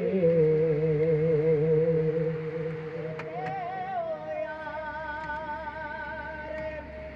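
Punjabi devotional singing: one voice holds a long wavering note, then rises to a higher held note about three seconds in.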